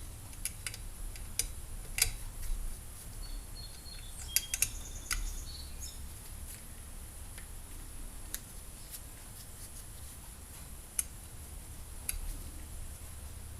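Scattered light clicks and taps of small hand tools and metal parts being handled on a workbench, with a few sharper ticks and a brief faint squeak, over a steady low hum.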